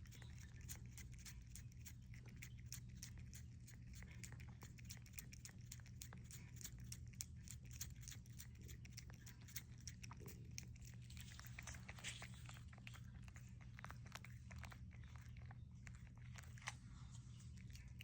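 Cats licking and lapping at a lickable puree treat stick: a run of faint, quick, wet clicks, over a steady low hum.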